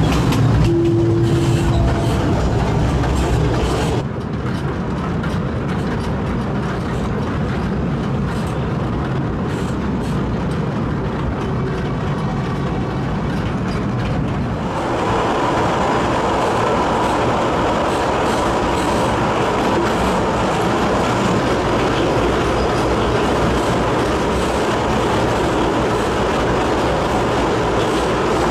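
Narrow-gauge trolley train running along the track, heard from its open-sided carriage: continuous wheel and rail noise. About halfway through it grows louder and brighter, with a faint steady whine.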